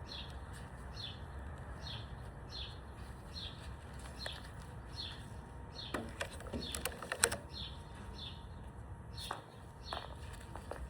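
A bird repeating a short, high, falling chirp a little more than once a second, over a steady low background noise. A few sharp clicks come around the middle.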